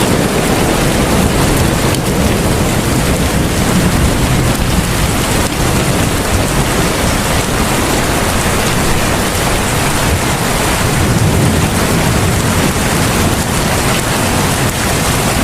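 Heavy rain pouring steadily: a dense, even hiss with a deep rumble underneath.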